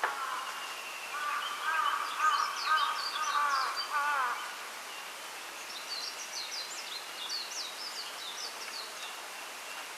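Small birds singing in a forest: a warbling song of repeated wavy notes from about a second in to just past the middle, with quick high chirps over it and again through the second half, all over a steady hiss.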